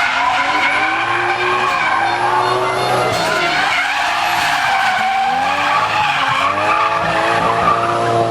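A drift car sliding on tarmac, its engine revving up and down hard while the tyres squeal and skid.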